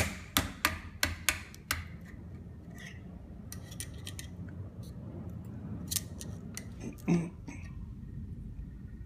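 Sharp metallic clicks and snips of hand tools working a hardened rubber seal off a Hydramatic automatic gearbox part: a quick run of about six in the first two seconds, then scattered lighter clicks and one heavier knock about seven seconds in.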